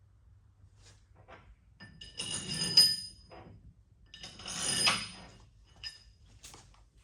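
Metal engine parts sliding and clinking against each other twice, a second or so apart, with a ringing metallic tone and a sharp clink near the peak of the first, plus a few light ticks.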